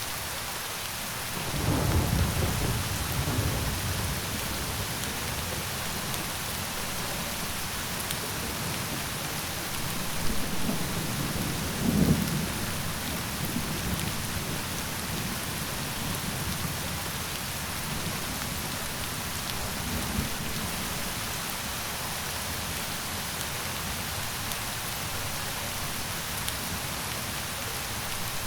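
Steady rain hiss with rumbles of thunder: a long rumble about two seconds in, another building around ten seconds with a sharper crack near twelve, and a smaller one about twenty seconds in.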